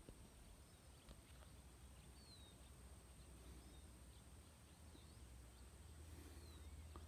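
Near silence: quiet open-country ambience with a low steady rumble and a few faint bird chirps, short falling notes.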